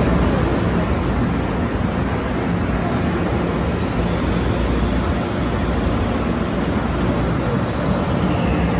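Steady rumbling noise of a train in motion, with no change in level.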